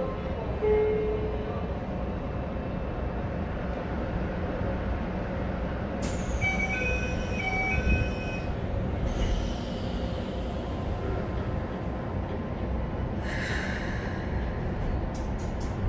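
Keikyu 1000 series electric train with Mitsubishi full-SiC VVVF control, heard from inside the car while running: a steady rumble of wheels on rail and traction gear. About six seconds in, a rush of higher sound with shifting tones rises and lasts a couple of seconds, and a short hiss follows a few seconds before the end.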